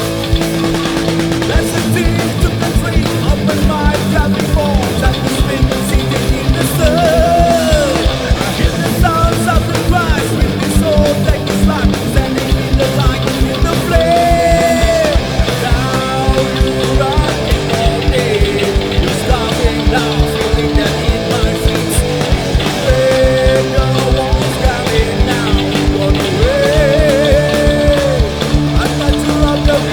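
Loud rock music: electric guitars over a steady, driving drum beat, with a melodic line gliding and holding notes above.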